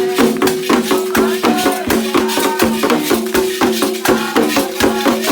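Candomblé ritual music for Xangô: hand drums beating a fast, driving rhythm with rattles shaking and voices singing over it.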